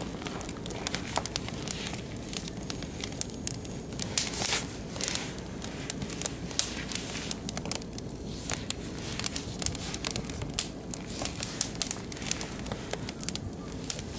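Oak and beech logs burning in a barbecue grill, crackling with irregular sharp snaps and pops over a steady low hiss.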